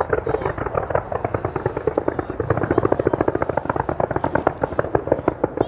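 Fireworks crackling: a rapid, dense run of sharp pops, many a second.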